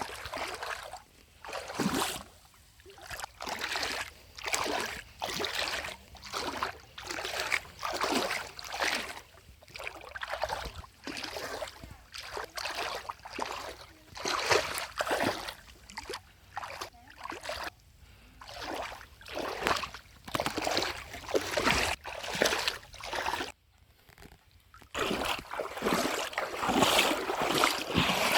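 Water splashing and sloshing in repeated surges, roughly one a second, with a short pause a little after twenty seconds in.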